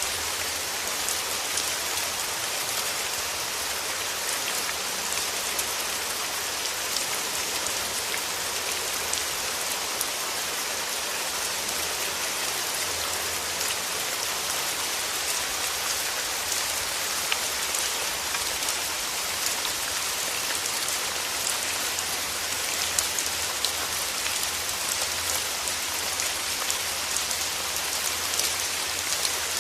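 Steady rain falling through forest trees: a constant hiss with many fine, close drop impacts on leaves.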